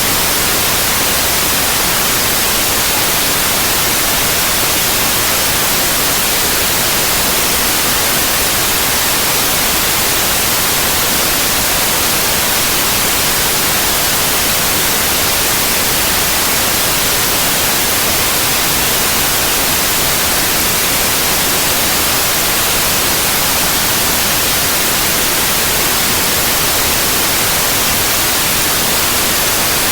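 Steady, loud white noise: an even hiss spread across all pitches and strongest in the treble, with no change or interruption.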